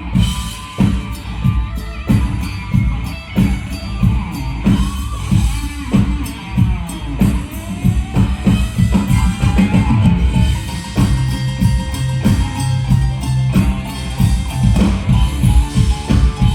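Live band playing an instrumental passage without vocals: a steady drum-kit beat over a bass line, with a lead part whose notes glide up and down in the middle of the passage.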